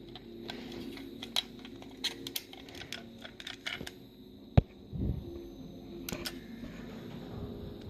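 Toy car being handled: scattered small clicks and taps, with one sharper knock about four and a half seconds in, over a faint steady low hum.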